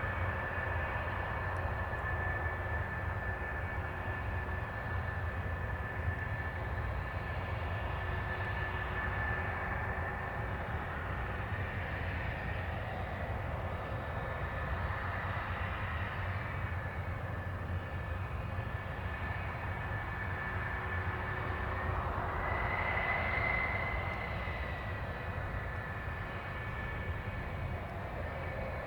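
Jet aircraft engine running with a steady high whine over a dull rumble, the whine swelling and rising a little in pitch about two-thirds of the way in before settling again.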